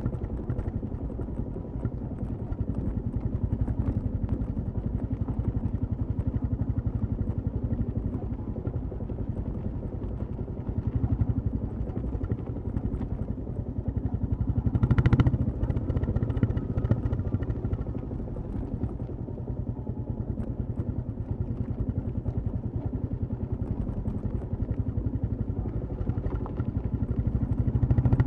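Royal Enfield Classic 350's single-cylinder engine and exhaust running steadily while riding, with an even pulsing note. It swells briefly louder about halfway through.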